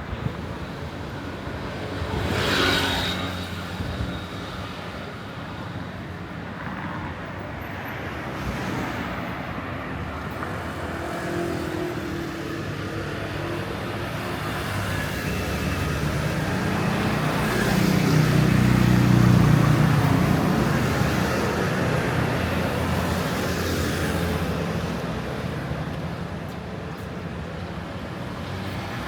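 Street traffic: motor vehicles passing under a steady hum. One passes briefly about two and a half seconds in, and a heavier engine with a low rumble swells to its loudest a little past the middle, then fades.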